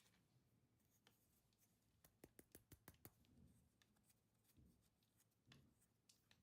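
Near silence, with a faint quick run of small clicks about two seconds in and a few soft knocks.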